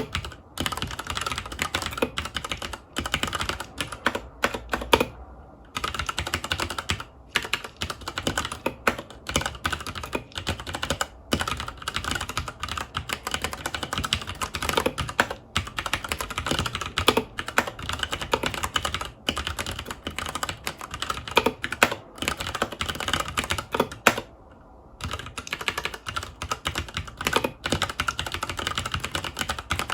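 Continuous fast typing on a FILCO Majestouch 2 Hakua tenkeyless mechanical keyboard with Cherry MX Brown tactile switches, a dense run of key clicks. It breaks off briefly twice, about five seconds in and again around twenty-four seconds in.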